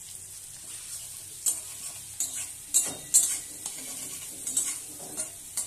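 Chopped bitter gourd and onion sizzling in oil in a wok over a gas flame turned up high, with a flat spatula stirring and scraping against the pan in several sharp strokes, loudest around the middle.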